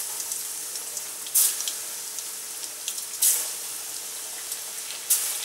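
Potato-starch-coated chicken strips deep-frying in hot oil in a frying pan: a steady sizzle with fine crackling, flaring up sharply three times, about two seconds apart, as more strips are dropped into the oil.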